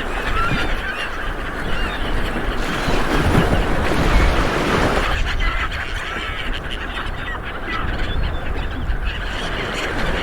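Light waves washing onto a beach, one swell building and breaking about four seconds in, with many short bird calls overhead throughout.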